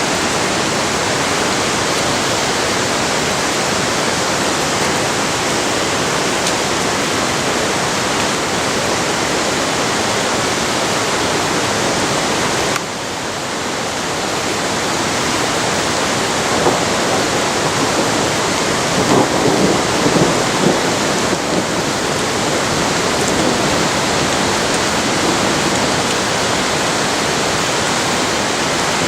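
Steady rain falling, an even hiss of rain with a few short louder bumps in the middle stretch. About halfway through the sound drops suddenly a little in level, then builds back up.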